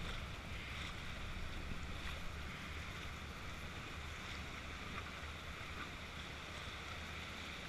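Steady rush of moving river water around a raft, with a low rumble of wind on the microphone.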